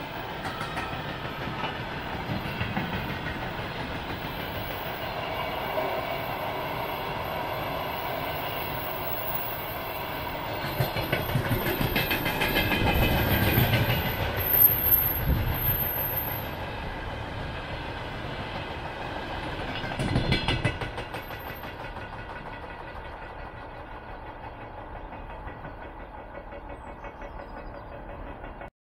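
A long freight train of tank wagons and other freight wagons rolling past, its wheels clattering over the rail joints. The rumble swells twice, once in the middle and again about two-thirds through. It then grows fainter as the end of the train moves away, and cuts off suddenly just before the end.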